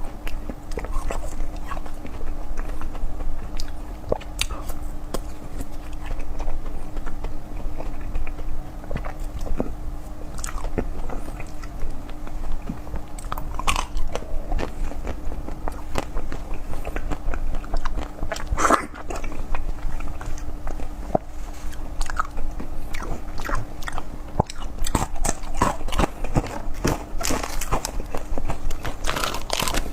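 Close-miked eating sounds: repeated biting and chewing with many sharp, irregular clicks and crunches, the mouth sounds of food being bitten and chewed.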